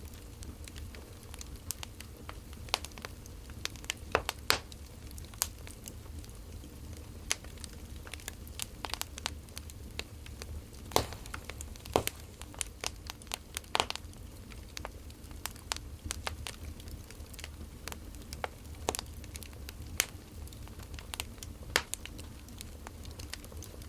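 Burning firewood crackling: irregular sharp pops and snaps over a low steady hum, with a few louder snaps near the middle.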